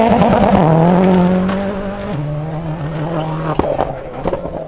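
Rally car engine on a gravel stage, running hard with a steady note. The pitch steps down about two seconds in and the sound fades as the car moves off, with a few sharp cracks in the second half.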